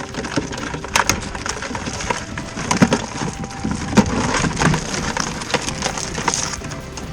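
Live blue crabs and a wire crab pot clattering and scraping as the crabs are shaken out into a bucket. The sound is an irregular run of clicks and knocks, with a few louder knocks about one, three and four seconds in.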